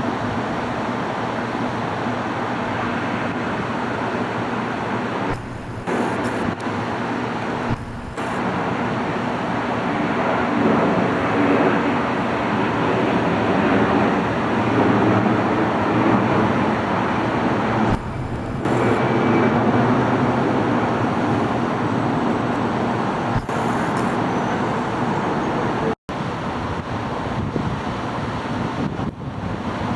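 Steady engine noise with a low hum, growing louder about ten seconds in and easing back after about eighteen seconds, interrupted by several brief gaps.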